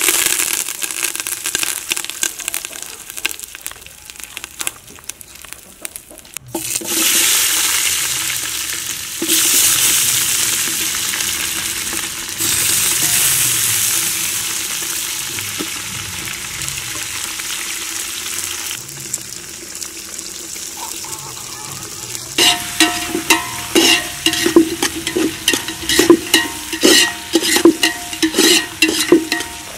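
Hot sesame oil sizzling in a metal pot as curry leaves, then sliced shallots and tomatoes, are dropped in, the sizzle surging loudly three times and slowly dying down. Near the end a ladle stirs the pot, knocking and scraping against the metal about two to three times a second with a ringing clink.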